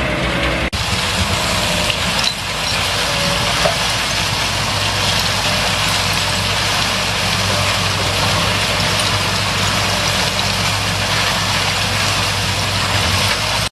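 Engine-driven screening machine running steadily: a low engine hum under a loud, even rushing rattle of material sifting through it, with a brief break under a second in.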